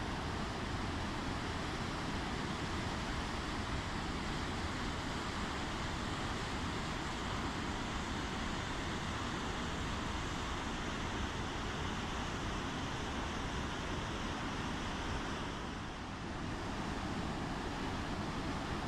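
Steady rush of running water, such as a waterfall, with no birdsong standing out. The level dips briefly near the end.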